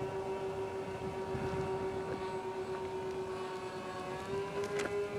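Twin-motor RC airplane droning overhead at part throttle: one steady propeller tone that steps up slightly in pitch near the end. Wind rumbles on the microphone underneath.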